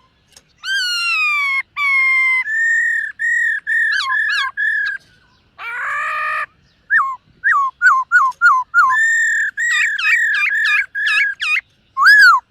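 Black-throated laughingthrush singing loud whistled phrases: long falling whistles, runs of arched notes, a single harsh buzzy note about halfway through, then quick repeated notes at about four a second.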